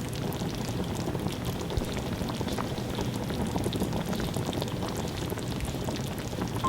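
Hot oil sizzling and crackling steadily in a wok as food fries, with many small pops throughout.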